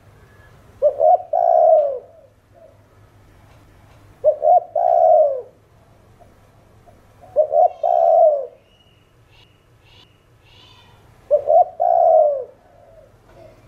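Spotted dove cooing: four phrases about three to four seconds apart, each a couple of short notes followed by a longer note that falls away.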